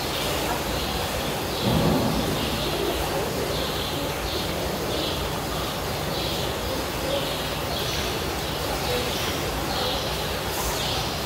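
A small bird chirping over and over, a short high note every half second to a second, over a steady background hiss. One brief low thump comes about two seconds in.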